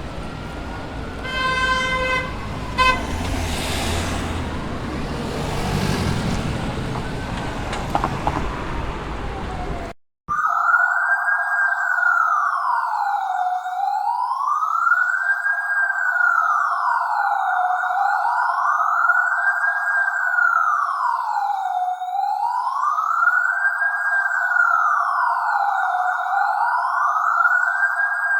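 Police siren wails. First a street recording: a siren sweeping faintly over traffic noise, with a short blaring horn-like blast about two seconds in. Then, after a brief cut, a clean siren wail rises and falls smoothly, about one cycle every four seconds.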